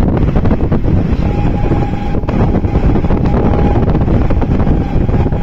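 Passenger train running, heard from beside an open window: a steady rumble of wheels on rail mixed with wind buffeting the microphone. A thin, steady high tone comes in about a second in and holds.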